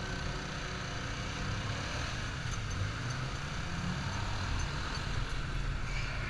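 Yamaha Fazer 250 single-cylinder engine running steadily as the motorcycle rides along, under steady road and wind noise.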